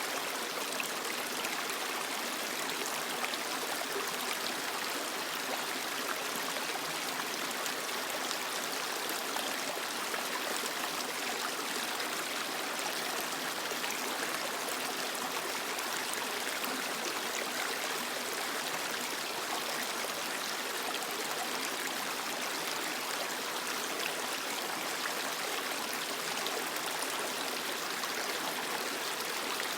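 Creek water running steadily over rocks, an even rushing with small trickles and gurgles, with no change throughout.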